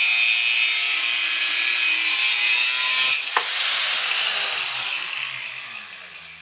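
Grinder with a cutoff wheel cutting steel plate with a steady high whine. About three seconds in it comes off the cut and is switched off, and the wheel winds down with a falling whine that fades away.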